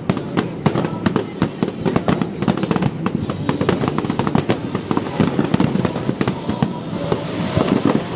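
Fireworks display: a dense, continuous run of overlapping bangs and crackles from bursting aerial shells, several every second.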